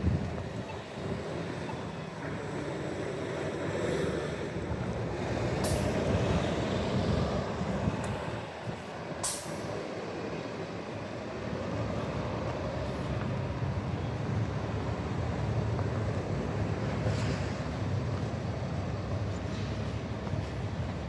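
City street traffic: a heavy vehicle's engine rumbling steadily. Two short sharp sounds come about six and nine seconds in.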